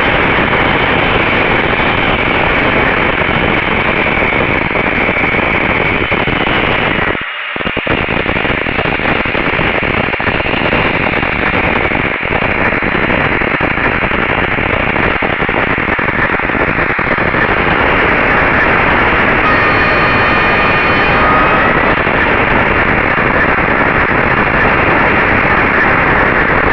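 Loud steady hiss-like noise on a RunCam 2 camera's audio track. It drops out for a moment about seven seconds in, and a few faint steady tones show through about twenty seconds in.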